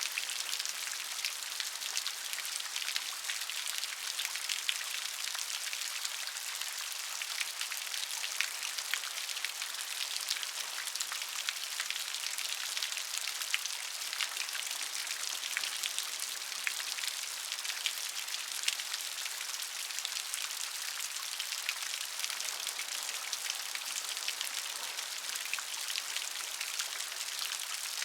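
Steady rain with dense, crisp drop ticks pattering on a surface.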